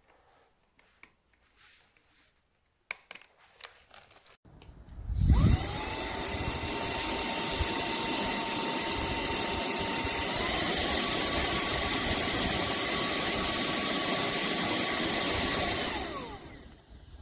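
TANYO cordless handheld vacuum cleaner switched on: its motor spins up to a steady whine, steps up to its higher speed about halfway through, then is switched off and winds down near the end. A few faint clicks come before it starts.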